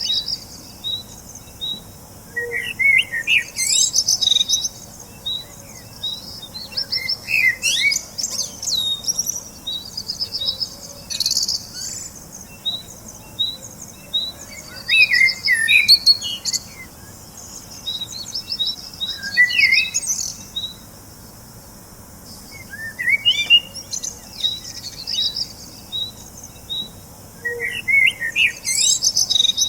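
Small birds chirping and twittering: a steady run of short, high, evenly spaced notes, with a burst of quick warbling chirps every four or five seconds.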